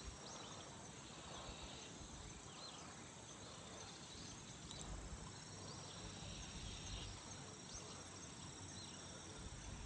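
Faint outdoor ambience: a thin steady high insect drone with scattered short chirps.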